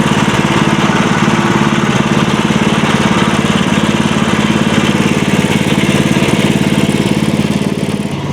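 Sawmill's gasoline engine running steadily, a constant engine hum with a hiss above it.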